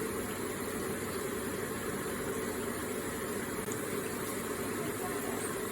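Electric water feature with water trickling and splashing steadily.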